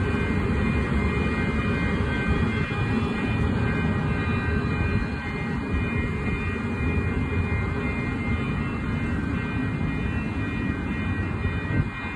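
Train running along the tracks: a steady low rumble with several steady high-pitched whining tones over it.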